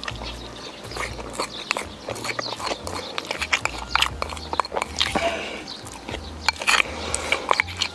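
A person chewing and biting food close to the microphone, with many quick, irregular clicks and smacks.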